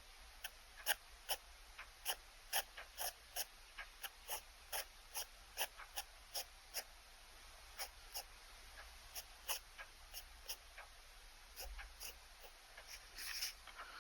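Pen sketching on paper: a run of short, quick scratchy strokes, about two or three a second, with a longer, louder stroke near the end.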